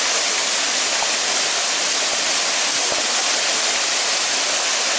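Dzhur-Dzhur waterfall rushing, a loud, steady hiss of falling water.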